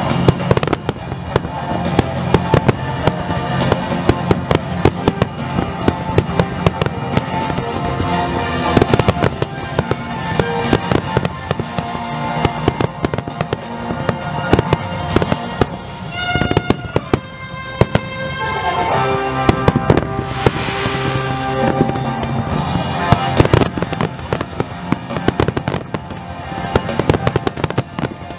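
Fireworks display: a continuous barrage of aerial shells bursting, with dense rapid bangs and crackling, while music plays alongside.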